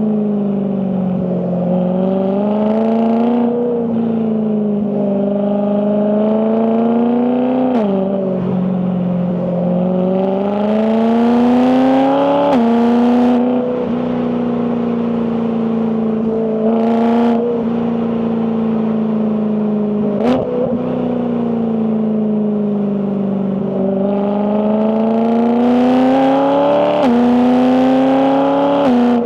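BMW E92 M3's 4.0-litre S65 V8 pulling through the gears on the dual-clutch gearbox: the engine note climbs and then drops suddenly at each quick upshift, five times, with lift-off and cruising stretches between. A brief sharp crack about twenty seconds in.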